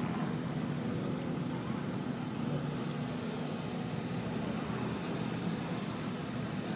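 Steady, even engine hum with no rise or fall, over outdoor crowd-and-traffic background.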